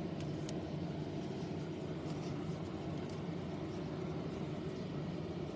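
Steady low background hum with no speech, and a few faint clicks about half a second in.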